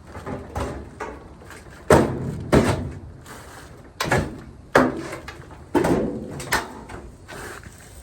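Sharp clunks and knocks as the GE dryer's cabinet is put back together, about six of them coming in three pairs.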